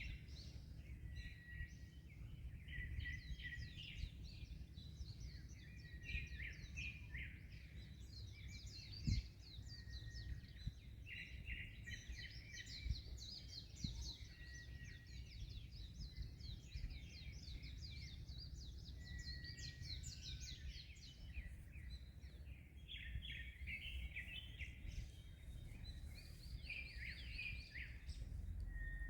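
Many small birds chirping and singing at once, calls overlapping without pause, over a steady low rumble of wind and surf. A single low thump about nine seconds in.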